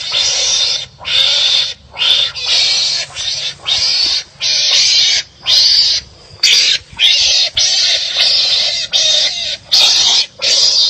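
Wild animals fighting and calling at each other: a rapid run of harsh, raspy calls, each about half a second long, roughly two a second with short breaks between them.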